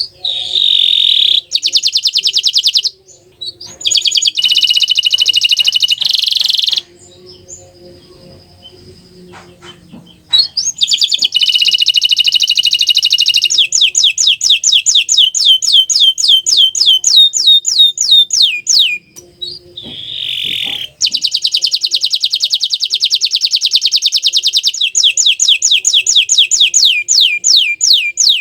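Green canary singing loud, high-pitched song phrases of fast trills. Some stretches are runs of quick downward-sweeping notes, about four a second. The phrases are broken by short pauses.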